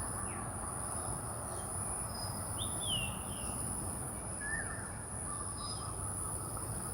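Outdoor ambience: a steady high-pitched insect drone over low background noise, with a few short bird chirps scattered through, the clearest about three seconds in.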